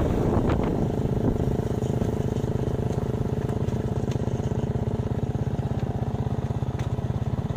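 Small motorcycle engine running steadily under the rider, with an even, fast pulsing beat. Wind buffets the microphone in the first second, then fades.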